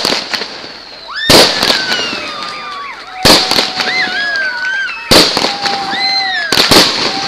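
Fireworks display: aerial shells bursting, one loud bang roughly every one and a half to two seconds. Between the bangs come whistling sounds that rise and fall in pitch.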